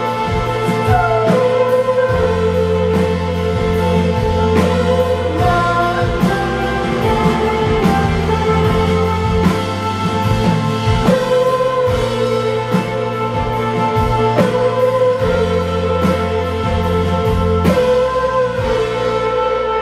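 A rock band playing live: a steady drum beat and sustained bass notes under held guitar or keyboard tones.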